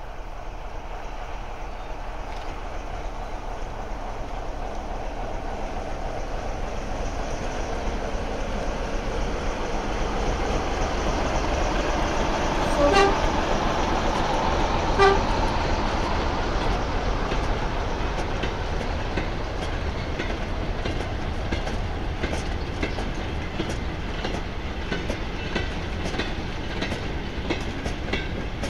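Diesel locomotive hauling a mixed goods train of old wagons past, its sound growing as it approaches. Two short horn blasts about two seconds apart near the middle, then the wagons' wheels clicking steadily over the rail joints as they roll by.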